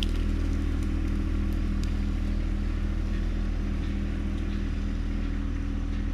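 John Deere 1025R compact tractor's three-cylinder diesel engine running steadily under load at a constant speed, with a few faint clicks over it.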